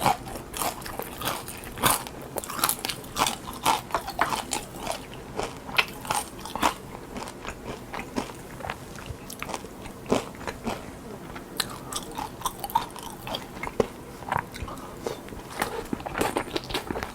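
Close-miked crunching and chewing of a battered fried king prawn. The crisp crackles come thick and fast at first, thin out in the middle and pick up again near the end.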